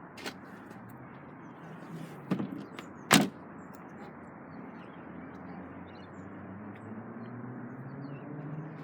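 Nissan Qashqai tailgate being shut: a couple of lighter knocks, then one sharp loud thud about three seconds in, over a steady background hum.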